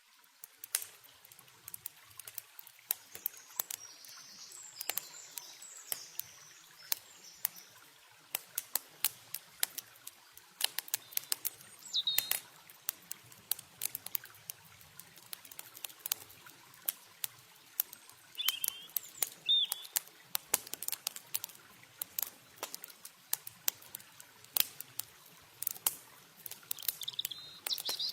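Campfire crackling with many sharp pops and snaps, over a faint hiss of running water. Short high bird chirps come in about twelve seconds in, again around nineteen seconds, and near the end, with a brief higher twitter a few seconds in.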